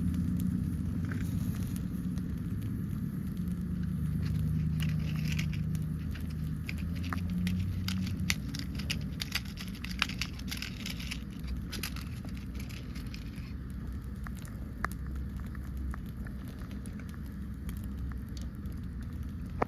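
Small fire burning a plastic microwave keypad, crackling and popping with scattered sharp clicks over a steady low rumble; the crackles come thickest in the middle and thin out near the end.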